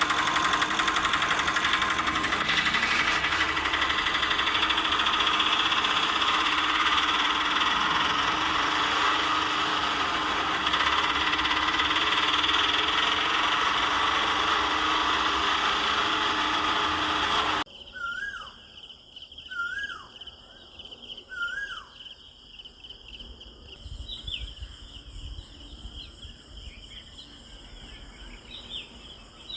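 A small electric motor runs with a steady loud buzzing whine, then cuts off abruptly about two-thirds of the way through. After it, birds chirp, with a few short falling calls and a high steady chirring.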